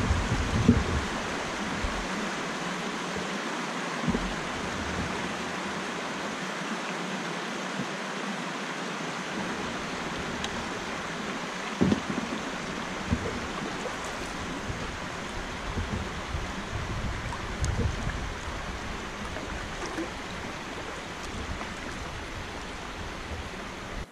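Steady rush of flowing river water, with scattered low thumps underneath.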